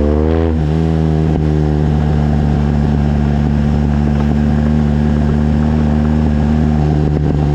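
BMW R1200GS boxer-twin engine through a Leovince exhaust with the dB-killer removed: revs peak and fall away just after the start, one short throttle blip about a second in, then a steady idle.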